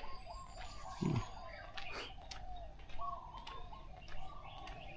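Morning chorus of many birds chirping and calling in short repeated notes, with sharp clicks scattered through it and a single soft low thump about a second in.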